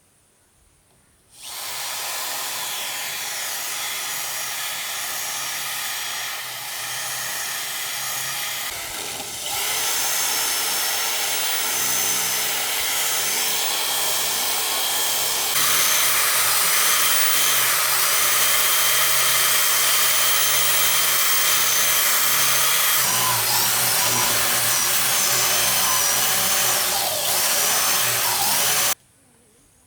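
A power tool running loudly and without a break, as when working wood. Its sound shifts abruptly three times, and it starts suddenly and cuts off suddenly near the end.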